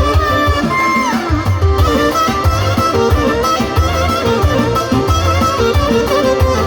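Instrumental passage of an Albanian folk song: a melodic lead over a steady, heavy beat, with one lead note sliding downward about a second in.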